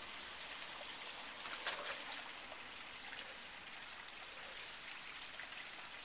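Faint steady rush of a stream or creek flowing, with a few faint clicks about a second and a half in.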